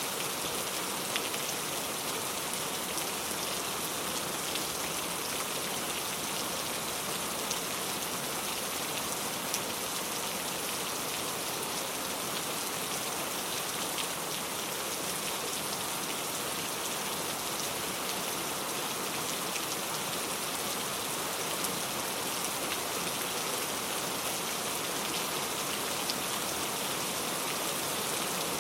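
Steady rain falling as an even hiss, with scattered sharper drop ticks.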